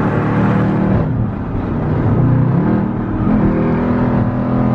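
Car engine under acceleration. Its pitch drops about a second in, then climbs twice, as with gear changes, before holding steady.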